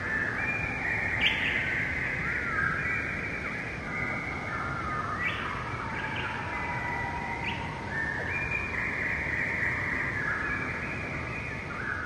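Several birds singing at once, with overlapping songs and a few sharp, high chirps, over a steady low background rush.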